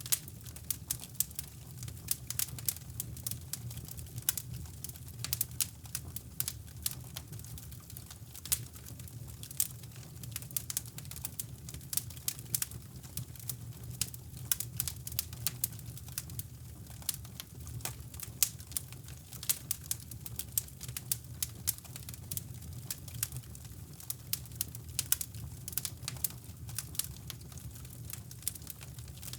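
Wood fire crackling in a fireplace: irregular sharp pops and snaps, several a second, over a steady low brown-noise rush.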